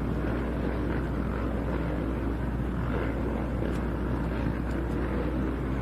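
Steady low rumbling background noise with a constant low hum and no clear changes.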